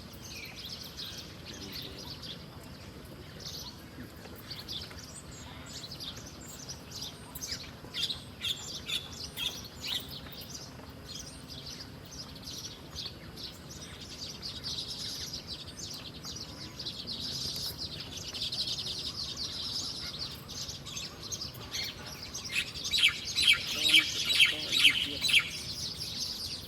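Small birds chirping and calling in short high notes, with a steadier high trilling through the middle and a fast run of loud chirps near the end.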